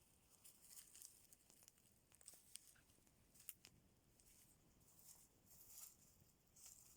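Faint, irregular crackling and snapping, with a few sharper pops; typical of a small campfire burning.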